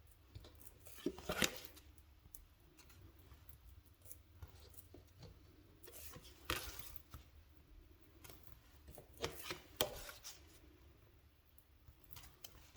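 Oracle cards being flipped and handled by hand: scattered crisp clicks and short slides of card stock. The loudest come about a second in, about six and a half seconds in, and twice near ten seconds.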